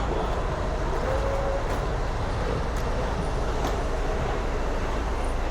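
Steady low rumble of a highway night bus's engine and road noise.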